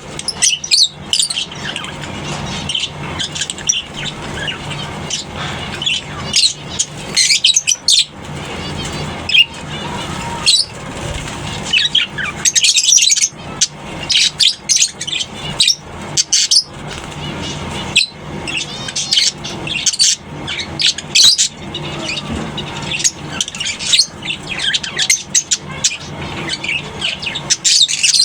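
A colony of lovebirds chattering and shrieking, many short shrill calls overlapping without a break. A steady low hum runs underneath.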